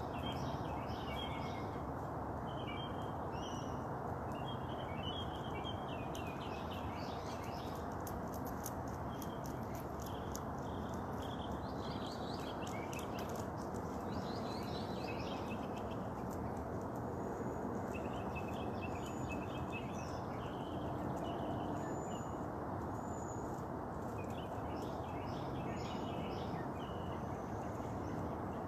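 Several wild birds chirping and singing in short, varied phrases over a steady low background rush.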